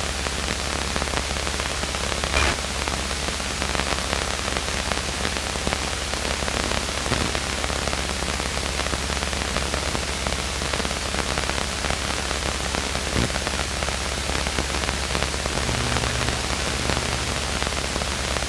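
Steady hiss of static on a light aircraft's radio and intercom audio feed, with a low steady hum underneath and a couple of faint clicks.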